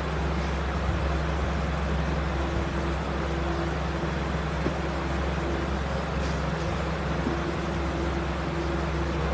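Steady motor-vehicle running noise: a constant low engine hum under an even rumble, unchanged throughout.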